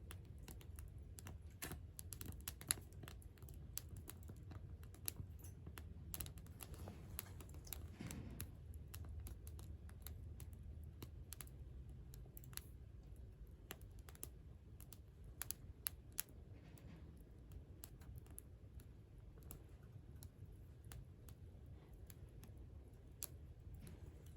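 Wood campfire crackling quietly: irregular sharp snaps and pops over a low steady rumble.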